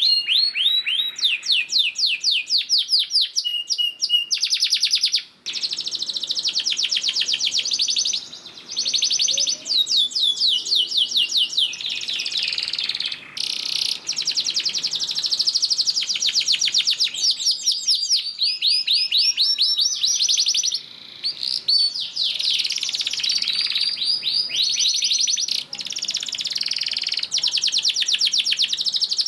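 Domestic canary singing a long, vigorous song of fast high trills and rolling runs of repeated notes, with only a few short breaks.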